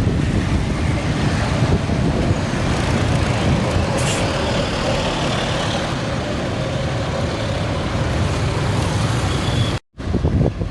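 Heavy trucks passing on a road: a steady rumble of diesel engines and tyres, with a short hiss about four seconds in. The sound drops out for a moment near the end.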